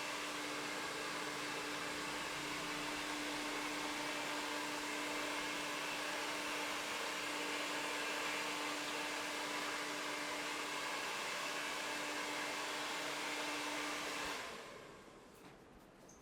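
A small electric motor-driven appliance running with a steady airy rush and a constant low hum, switched off about fourteen seconds in, the rush dying away over about a second.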